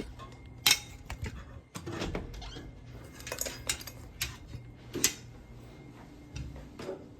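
A string of sharp clinks and knocks from hard objects being handled and set down, the loudest a little under a second in and again about five seconds in.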